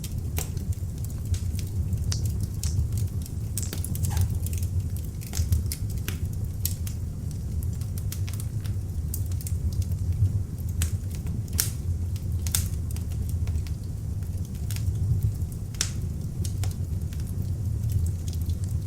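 Beech-wood log fire burning in an open fireplace: a steady low rumble of the flames with irregular sharp crackles and pops throughout.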